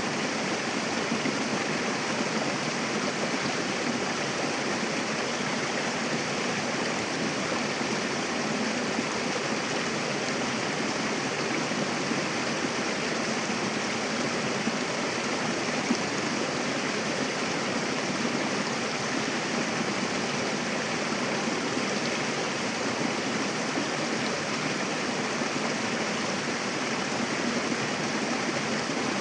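Mountain river rushing over rocks: a steady, even splashing and gurgling of water.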